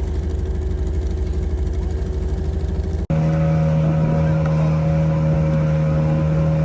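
Motorboat engine running steadily under way. About three seconds in the sound drops out for an instant and comes back with a higher, stronger engine tone.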